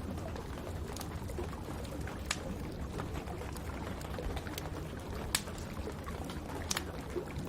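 Wood fire crackling in a fireplace, with scattered sharp pops over a steady rush of rain.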